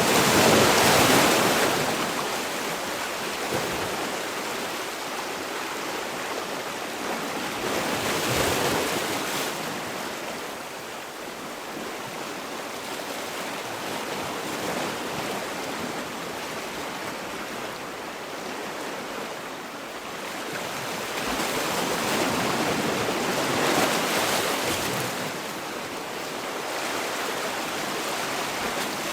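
Sea waves breaking and washing ashore. A steady rushing that swells and fades in slow surges, loudest near the start, again about eight seconds in, and in a longer surge a little past twenty seconds.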